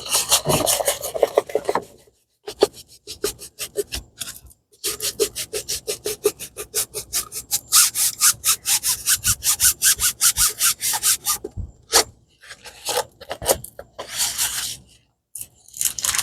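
Quick, even back-and-forth rubbing on a plastic-covered diamond-painting canvas, about five strokes a second for several seconds, with a few scattered rubs near the end: a hand smoothing out the fold crease.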